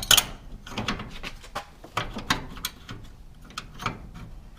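A garage door roller bracket of metal being slid back into place and handled: a sharp clack just after the start, then scattered light clicks and knocks.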